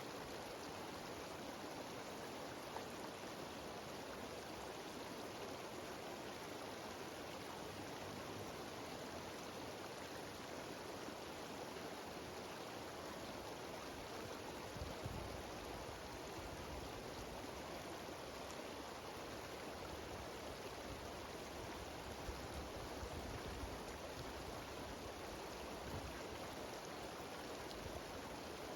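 Steady rushing of a mountain stream's cascading waterfall, even and unbroken, with a couple of faint low bumps about halfway through.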